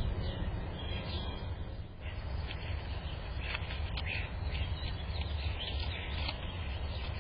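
Birds giving short, scattered chirps and calls over a steady low rumble.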